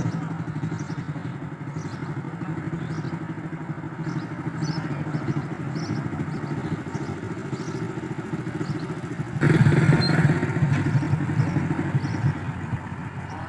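Vehicle engine running with a steady pulsing hum, becoming suddenly louder about nine and a half seconds in.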